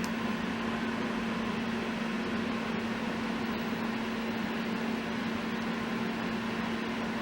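Steady room background noise: a constant low hum with an even hiss, unchanging throughout.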